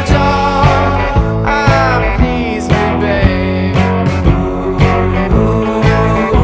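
Rock band music: electric guitar, bass and drums playing with a steady beat.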